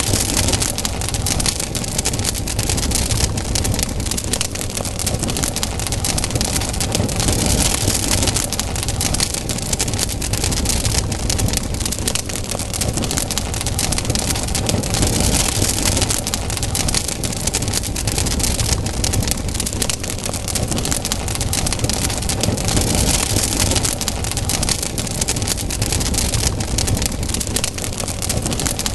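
Campfire burning, its wood crackling and popping densely and continuously over a steady low rumble.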